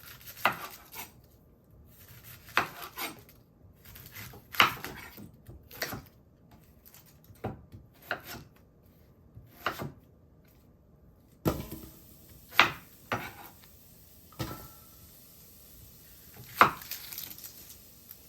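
Irregular kitchen knocks and clatters, about one every one to two seconds, some in quick pairs, like utensils and food set down on a wooden board and against pots during food preparation.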